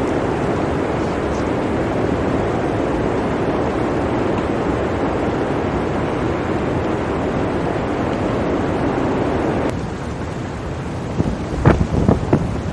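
Blizzard wind blowing as a steady rush, dropping suddenly about ten seconds in, then coming in uneven gusts near the end that buffet the microphone.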